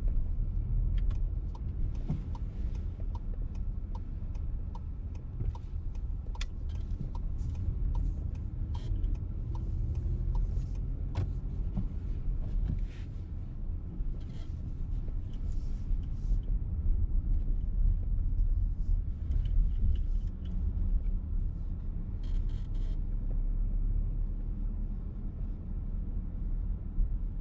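Inside the cabin of a VW T-Roc on the move: steady low rumble of engine and road. For the first ten seconds or so the turn indicator ticks about one and a half times a second.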